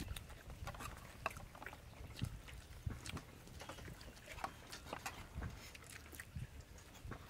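Several people eating fried chicken at close range: irregular wet chewing, lip-smacking and biting, with scattered small clicks and taps.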